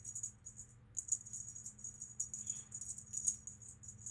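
Cat toy bird making a continuous high, uneven jingling rattle as it moves, with a short break just before the one-second mark, over a faint low steady hum.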